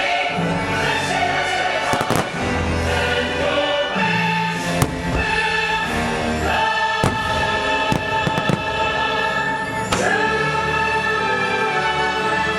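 Orchestral fireworks-show soundtrack with a choir singing sustained chords over loudspeakers. Fireworks bursts bang through it several times, a sharp one about ten seconds in.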